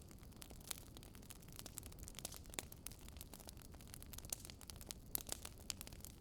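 Faint crackling of a wood fire: irregular sharp pops and snaps over a low steady hiss.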